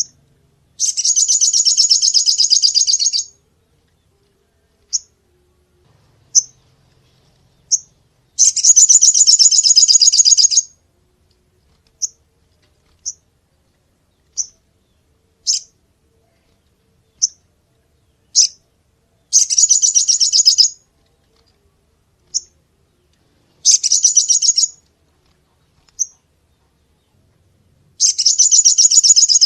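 Sunbird song: five long, rapid, high-pitched trills of one to two seconds each, with single sharp chirps scattered in the gaps between them. It is a call used as a lure (pikat) for catching sunbirds.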